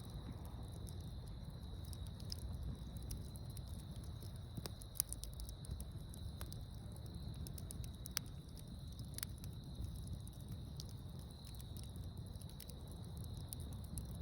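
Outdoor wood fire crackling, with scattered sharp pops and a low rumble, under a steady high-pitched insect chorus.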